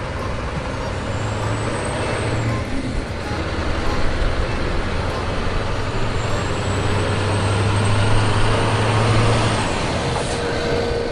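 Truck engine running steadily, its low hum swelling louder in the middle. A faint high whine glides up and falls away twice.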